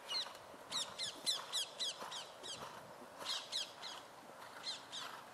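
A bird calling in quick runs of short, high chirps that sweep downward, several to a second.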